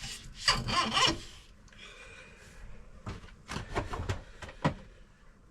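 KYB fork outer tube being slid back over the inner tube and its bushings: metal parts rubbing and scraping, then a string of sharp clicks and knocks.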